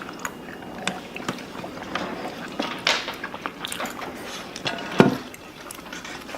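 People eating: mouth sounds of biting and chewing, with many small clicks and smacks, and one louder knock about five seconds in.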